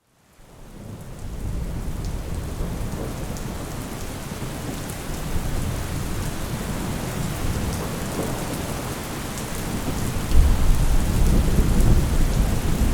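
Thunderstorm: steady heavy rain hissing, fading in at the start, with a deep thunder rumble swelling up about ten seconds in.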